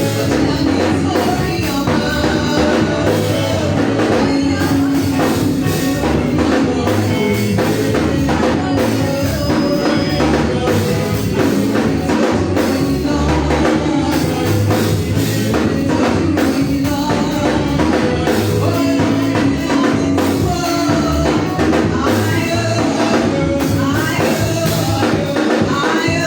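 Live church praise music: a band with drum kit and tambourine playing a steady beat, with singing.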